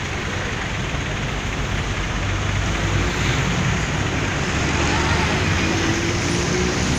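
Universal U533 tractor's diesel engine running steadily, getting a little louder about three seconds in.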